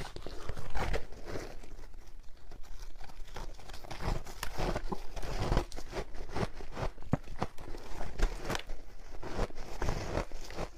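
Someone biting and chewing a frozen matcha ice ball close to the microphone: irregular crunches and crackles of ice breaking in the mouth.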